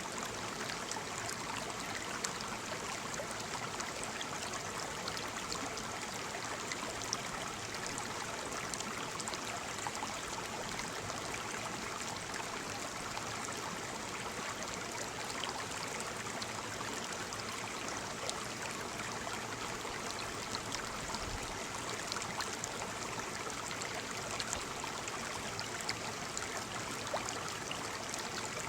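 Small waterfall: water falling and splashing in a steady rush, with fine droplet splashes scattered through it.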